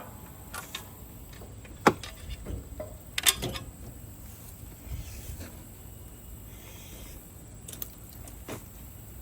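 Scattered metallic clicks and clanks of tools and metal parts being handled, with two sharp knocks about two seconds and three seconds in, over a low steady hum.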